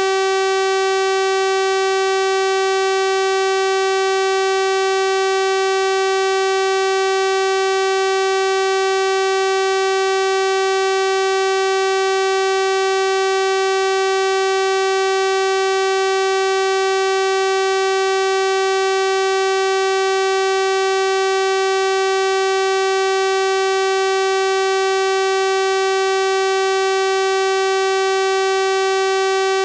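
Steady synthesized 384 Hz sawtooth-wave tone, a constant buzzy pitch with a full set of harmonics, unchanging throughout.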